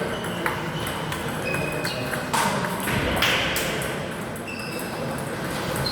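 Table tennis balls clicking and pinging off bats and tables in an irregular scatter of sharp short strikes, over a steady murmur of hall background noise.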